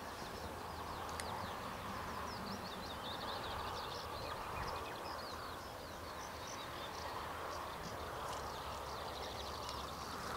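Small songbirds singing in many quick, high chirps over a steady, even outdoor background noise.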